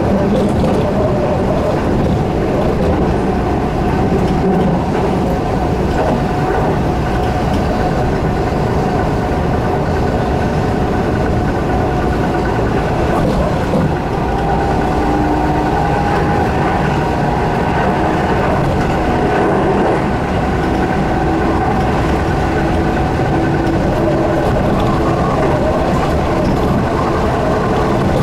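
Keihan electric train running at speed, heard from inside the car: a steady rumble of wheels on rail, with a few faint steady tones over it.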